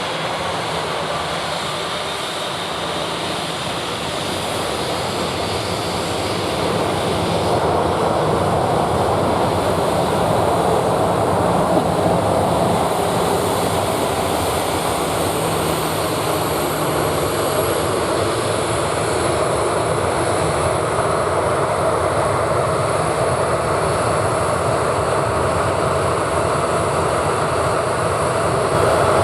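Boeing 737-800 jet engines running at high power during takeoff, heard from close by: a loud, steady jet noise that grows louder about seven seconds in, with a high whine that slowly falls in pitch.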